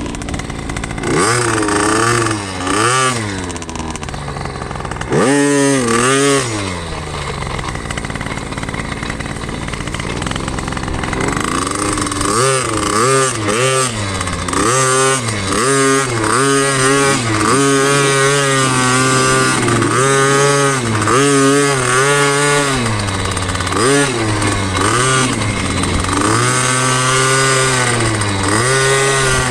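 Two-stroke dirt bike engine being ridden and revved, its pitch climbing and dropping over and over. There are a few long sweeps early on, then quick throttle rises and falls about every second or so through the second half.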